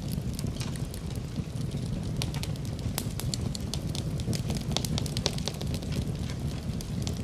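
Wood fire crackling in a fireplace: a steady low rumble with many small pops and snaps coming irregularly throughout.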